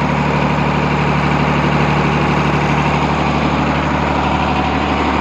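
Large six-cylinder truck engine driving an electric generator, running steadily at constant speed.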